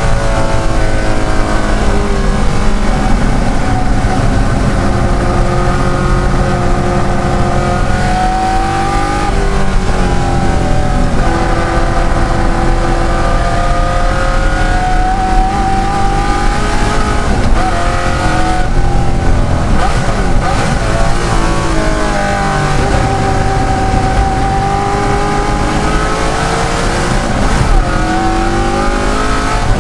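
De Tomaso Pantera's Ford V8 racing at full throttle, its pitch rising through the gears and then falling away several times as the car brakes and shifts down for corners.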